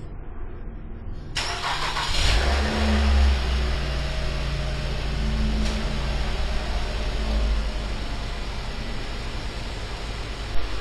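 Car engine starting about a second in, rising briefly in revs and then settling into a steady idle as it is left to warm up. One short knock near the end.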